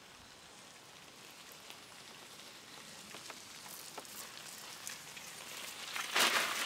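Rain falling with scattered drips hitting nearby surfaces, a steady hiss that slowly grows louder. Near the end a louder rush of noise swells for about half a second and then cuts off sharply.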